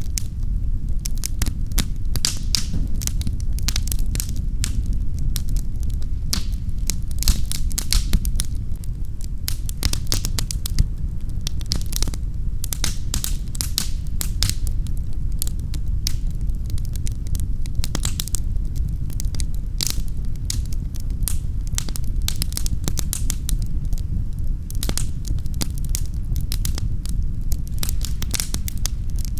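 Wood fire crackling in a fireplace: a steady low rumble of the flames with frequent, irregular sharp pops and snaps.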